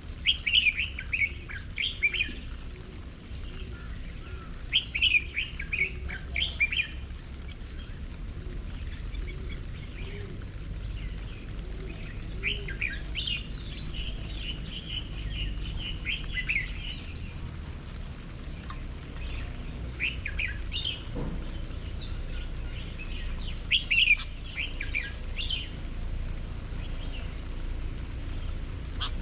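Small garden songbirds chirping in clusters of quick high notes, about five bursts a few seconds apart, over a steady low background rumble.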